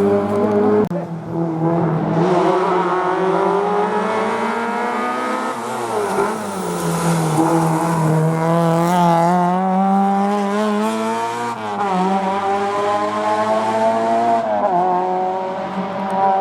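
Historic rally car taking a hairpin at racing speed. The engine note drops about a second in as it brakes and shifts down, then the revs climb and fall through several gear changes as it drives out, with the tyres squealing through the middle of the turn.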